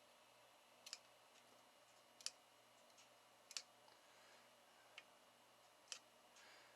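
Near silence broken by faint, sharp clicks, about five of them a second or so apart.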